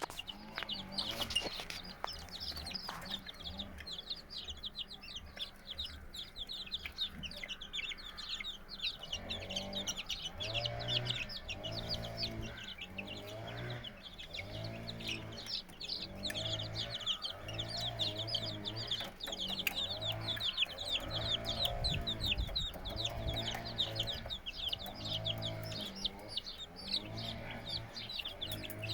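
A brood of two-week-old Australorp chicks peeping continuously, many short high peeps overlapping.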